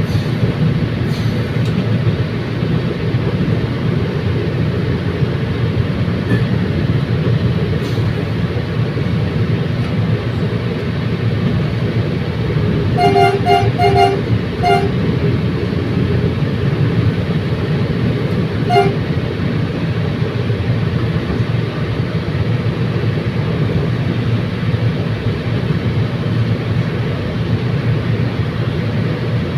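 Diesel commuter train running along the track with a steady rumble. About halfway through come four quick short horn toots, then one more a few seconds later.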